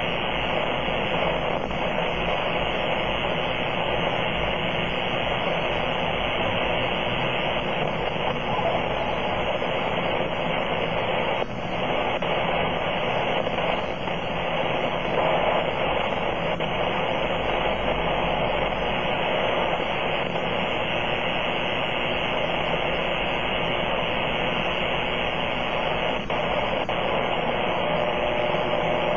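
Apparent powerline noise (RFI from faulty hardware on power poles) received at about S7 on the 80-metre amateur band through an HF transceiver: a steady noise filling the receiver's audio passband, loud enough to bury weaker stations.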